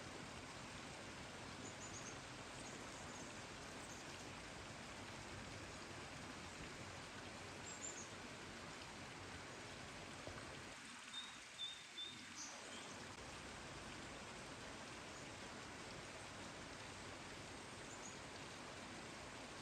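Steady rain falling, an even hiss, with a few faint, short high bird chirps scattered through it, several of them close together about halfway through.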